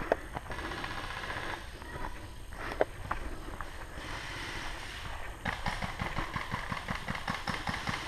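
Footsteps and the rustle of clothing and gear as an airsoft player moves on foot, with two sharp cracks, the first right at the start and the second about three seconds in. In the second half the steps quicken to a fast, even run of about four or five a second.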